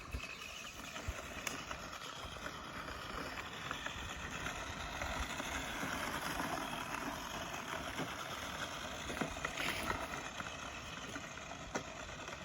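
Radio-controlled car's electric motor running with a faint whine over the rough noise of its tyres on the ground.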